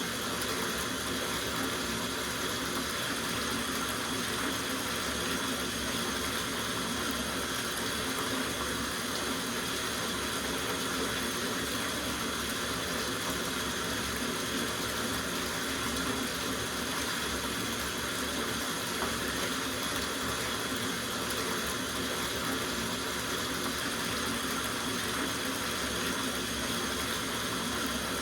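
Water running steadily from a tap into a soaking bathtub, an even, unbroken rush.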